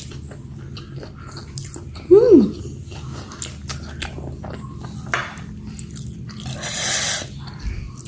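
Close-up chewing and biting of spicy squid: wet mouth clicks and small crunches. A little after two seconds there is one short, loud sound that rises and falls in pitch, and a hissy sound lasts about half a second near seven seconds.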